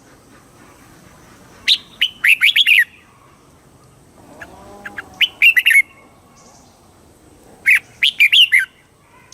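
Red-whiskered bulbul singing: three short phrases of quick, bubbly notes, each about a second long, spaced a few seconds apart.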